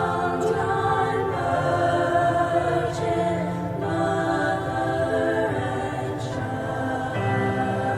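A school choir singing, holding long notes that change together from chord to chord.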